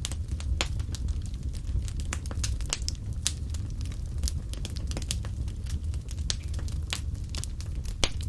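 Wood fire burning, with irregular sharp pops and crackles over a steady low rumble. The loudest pop comes just before the end.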